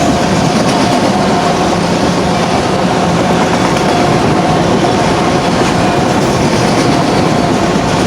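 BNSF autorack freight cars rolling past at speed: a steady, loud rumble and clatter of steel wheels on rail, with a thin steady whine running over it.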